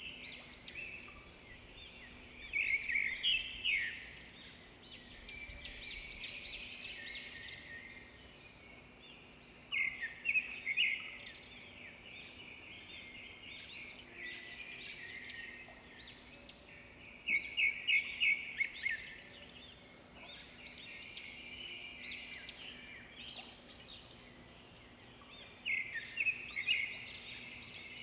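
Songbirds singing: a steady chorus of high chirps, with a louder song of rapid repeated notes coming back about every seven to eight seconds.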